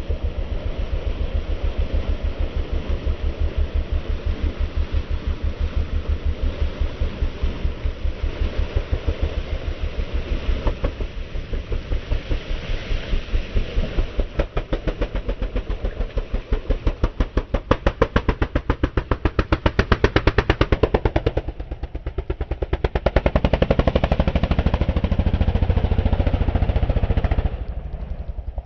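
Racing engine running with a rapid, evenly pulsing exhaust beat; the pulses grow faster and louder around the middle, then ease briefly shortly before the end.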